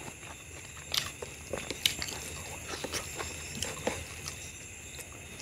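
Close-miked chewing of mutton skin, with irregular wet mouth clicks and lip smacks.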